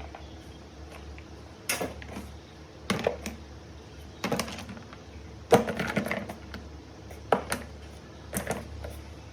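Irregular sharp clicks and light knocks of small hard parts being handled, in about six short clusters, the busiest a little past the middle, over a low steady hum.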